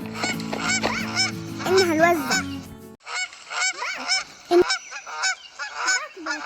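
Geese honking repeatedly, many short calls in quick succession. For about the first three seconds music plays under them and then cuts off abruptly.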